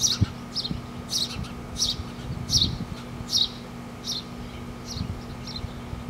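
Baby birds begging with short, high, repeated chirps, roughly one or two a second, fading a little toward the end, over a low rumble.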